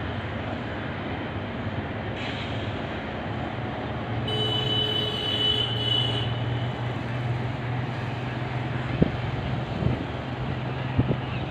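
Passenger train coaches rolling past a level crossing, a steady low rumble on the rails. About four seconds in a horn sounds for roughly two seconds, and a few sharp clacks come near the end.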